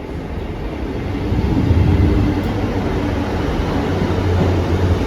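Class 158 diesel multiple unit at the platform, its diesel engines running with a steady low hum that grows louder about a second and a half in.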